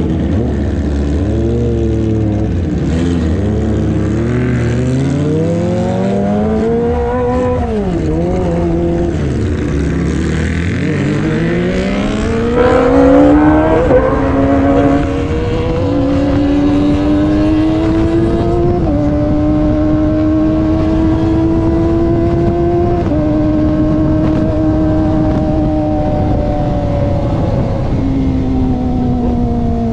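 Kawasaki ZX25R's 250 cc inline-four with an aftermarket racing exhaust, ridden on the road: the engine note swings down and up with the throttle, climbs sharply to its loudest about halfway through, then cruises at a steady pitch with a few small drops as it shifts up. Wind noise runs under it.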